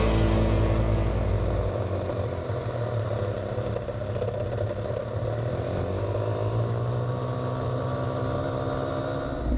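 Motorbike engine running, a steady hum that rises and falls gently in pitch.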